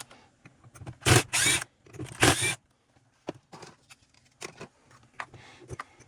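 Handling noises on a workbench: scattered clicks and light knocks, with two louder scraping rustles about a second apart near the start.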